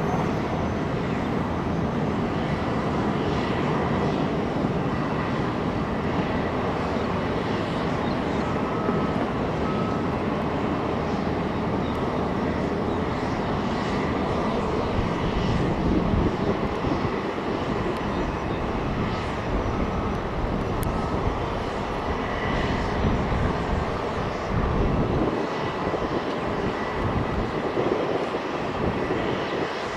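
Jet airliner engines running, a steady, even rush of noise.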